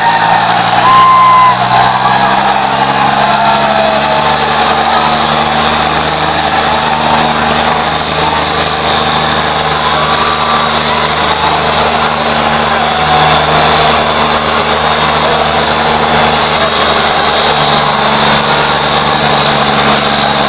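Tractor diesel engines running steadily under heavy load, pulling against each other in a tractor tug-of-war, with a high steady whine on top.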